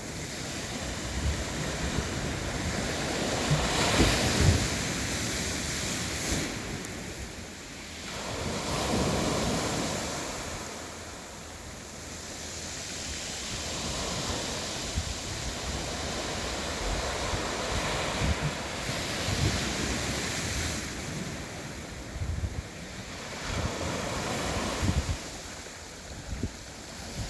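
Sea waves washing against a rocky shore, swelling and ebbing in several surges, with wind buffeting the microphone.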